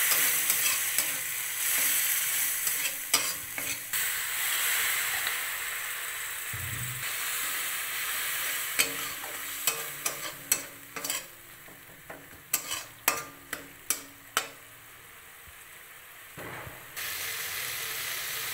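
Spice paste frying in oil in a metal kadai, sizzling as a spatula stirs it; the masala is being fried until the oil separates. In the middle the sizzle drops away while the spatula clicks and scrapes sharply against the pan a dozen or so times, and the sizzle picks up again near the end.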